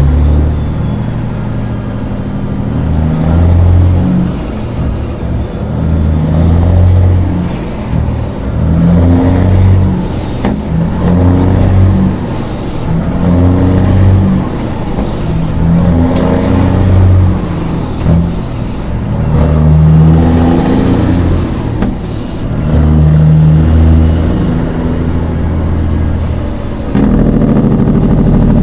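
Semi truck's diesel engine pulling through the gears, the engine note coming in steps of about two seconds with short breaks between them, and a high whistle rising and falling with each pull. Near the end it settles into a steady, louder run.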